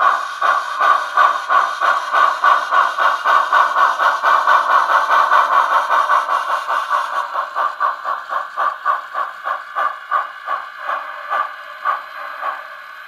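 Digital steam-locomotive sound from an Econami sound decoder in an HOn3 model 2-8-0, played through a tiny cell phone speaker with no bass: a steady run of exhaust chuffs that slow and fade, the sound of the engine easing down to a stop.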